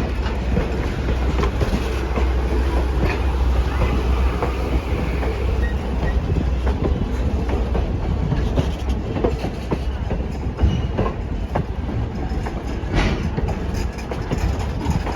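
Railroad passenger car rolling on the track: a steady low rumble with scattered clicks and knocks from the wheels and car.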